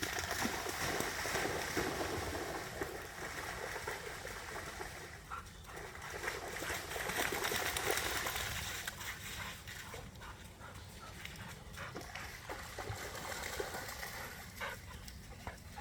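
A dog scrambling and splashing through creek water after a thrown ball, with rustling and splashing that swell and fade, over the creek running.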